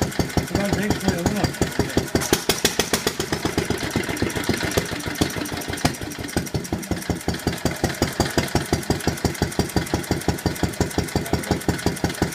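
Ronaldson Tippett 3 HP single-cylinder stationary engine running steadily, with an even beat of about five exhaust pulses a second.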